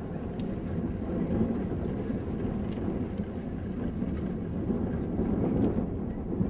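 Subaru Impreza WRX STI rally car's turbocharged flat-four engine running as the car drives the course, a steady low din that grows a little louder toward the end.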